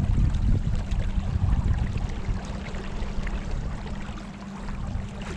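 River water splashing and trickling around a kayak, with a gusty low rumble of wind on the microphone that eases off about halfway through.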